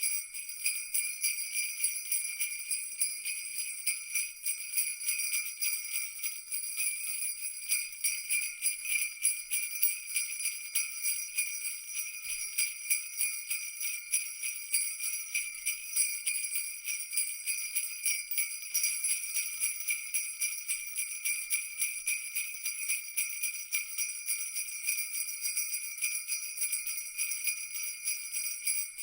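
Sleigh-style jingle bells shaken continuously in a fast, even jingle, a bright high ringing with nothing low underneath.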